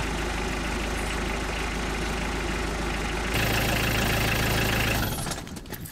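Car engine idling through a newly fitted central exhaust silencer, run to heat the exhaust so the sealing paste at the clamp joint cures. The hum gets a little louder and deeper about three seconds in, then cuts off abruptly near the end.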